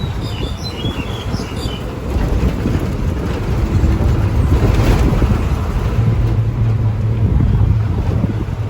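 Steady low rumble of a vehicle in motion, with wind noise, and a few brief high chirps in the first couple of seconds.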